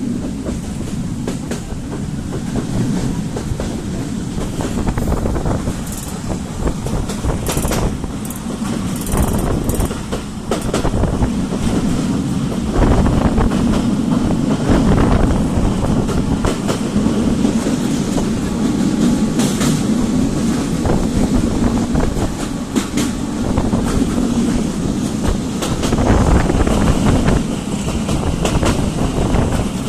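Freight train of oil tank wagons rolling along the track: a steady loud rumble with wheels clacking over the rail joints and occasional brief high squeals.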